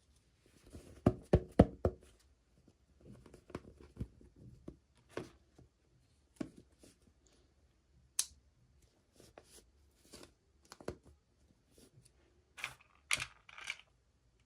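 Hands unboxing small doll toys and their packaging: a quick run of sharp knocks about a second in, then scattered clicks, taps and rustles, with a short burst of rustling and tearing near the end.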